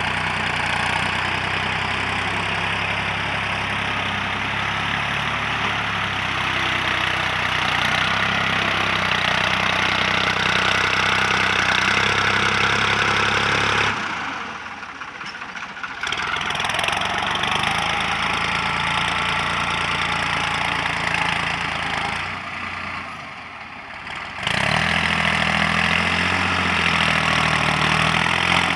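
New Holland TT55 tractor's diesel engine running steadily, with a strong mechanical clatter over its low hum; the sound falls away briefly twice, each time for about two seconds.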